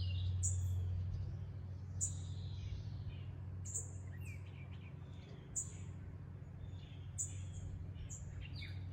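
Wild songbirds chirping: short high calls that drop in pitch, repeating every second or so, with a few lower notes between. A steady low hum runs underneath.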